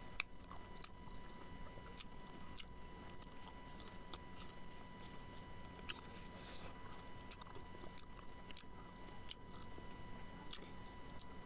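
A person chewing and biting food close to the microphone: small irregular clicks and mouth sounds, with a faint steady high tone underneath.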